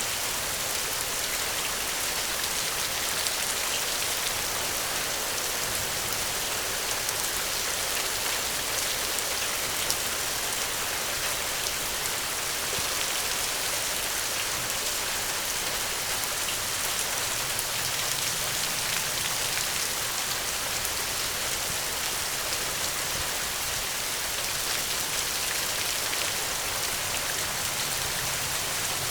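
Steady rainfall: an even, unbroken hiss of drops with no clear changes.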